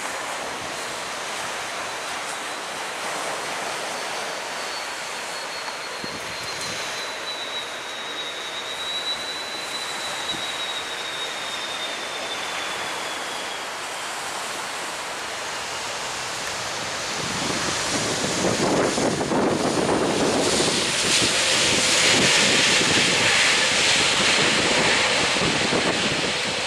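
Jet airliner passing close by over surf breaking on the beach: a high engine whine slowly falls in pitch, then the engine noise grows louder in the last third.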